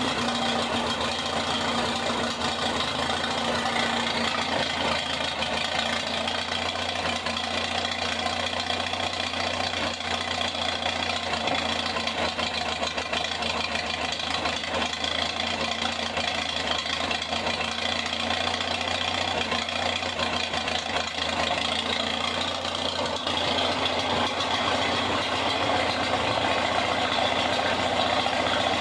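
Tractor engine idling steadily, just back together with a refitted carburetor and intake/exhaust manifold.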